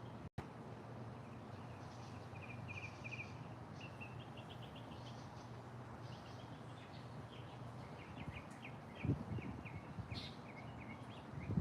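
Songbirds singing in short, rapid trills of repeated chirping notes over a steady low background hum, with two brief low thumps toward the end.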